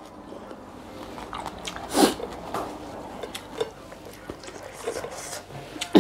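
Close-up mouth sounds of a person eating spicy papaya salad with crab and rice noodles: chewing with wet smacks and small clicks, with a louder burst about two seconds in.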